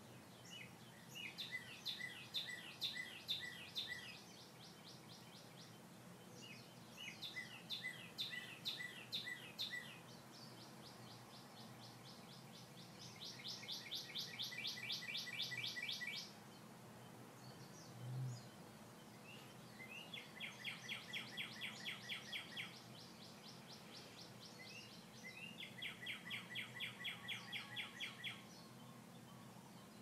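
A songbird singing: five songs, each a rapid run of repeated high notes about three seconds long, separated by pauses of several seconds, over faint background noise. A brief, soft low thump comes about two-thirds of the way through.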